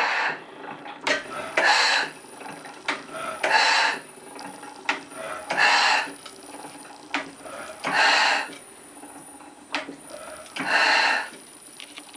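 Antique Otto slide-valve four-stroke gas engine running slowly: a loud hissing puff about every two seconds, with lighter clicks and knocks from the valve gear between them.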